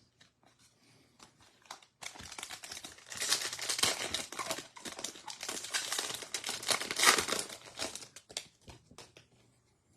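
A foil trading-card pack wrapper being torn open and crinkled, a dense crackling that starts about two seconds in and dies down to a few light clicks near the end.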